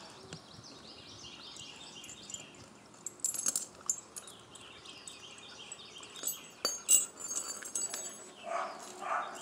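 A bird chirping, a quick run of short repeated high falling notes, with a few sharp metallic clinks and rattles partway through. Louder animal sounds start near the end.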